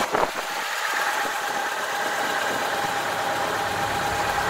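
VAZ Niva four-cylinder engine idling steadily, the grinding gone after its distributor shaft bushings were oiled. A light valve tick remains, which the owner puts down to valve clearance on a cold engine that will go away as it warms.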